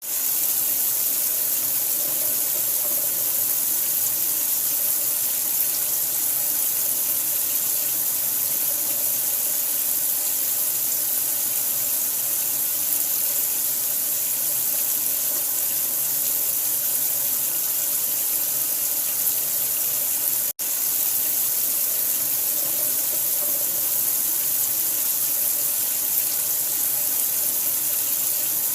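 Steady, unchanging rush of running water, strongest in the high end, like a tap running into a sink, used as sleep noise for a newborn. It cuts out for an instant about two-thirds of the way through, then resumes unchanged.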